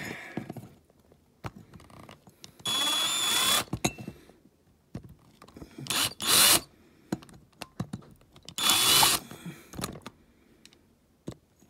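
Small handheld power drill running in three short bursts, each spinning up with a rising whine, with small clicks and knocks from working on a die-cast toy between them.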